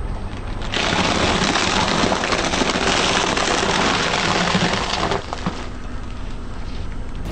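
A car's tyre rolling slowly over crunchy objects and crushing them: a dense crackling and crunching that starts about a second in and stops sharply after about four and a half seconds, over the steady low running of the car's engine.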